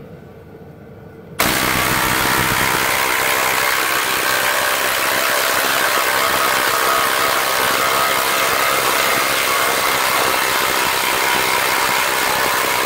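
Ryobi impact driver, on a high-capacity battery, hammering steadily as it drives a fastener. It starts about a second and a half in, runs without cutting out for about eleven seconds, and stops abruptly near the end.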